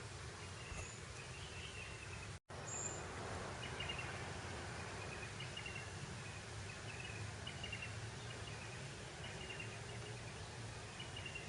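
Grassland ambience: a steady breeze hiss with short, repeated high chirps scattered through it. The sound cuts out to silence for a moment about two and a half seconds in.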